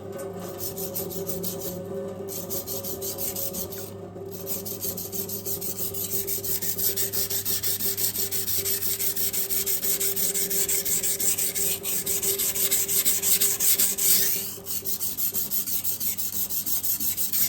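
Knife blade stroked back and forth on a Cheefarcut 400 grit sintered diamond stone in rapid, even strokes, steel grinding against diamond abrasive, with a brief pause about fourteen seconds in. This is the second side of the edge being ground after a burr was raised on the first.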